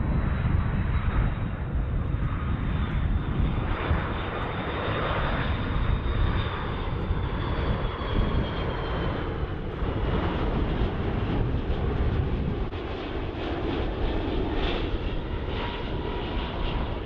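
Jet airliner's engines running loud and steady, a deep rumble with a high whine that slowly falls in pitch.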